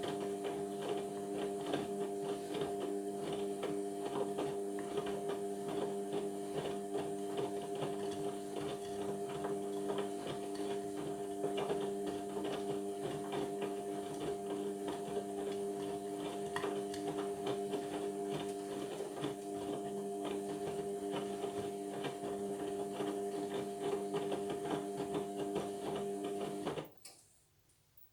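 Indesit washing machine running with a steady motor hum and whine, which cuts off abruptly near the end.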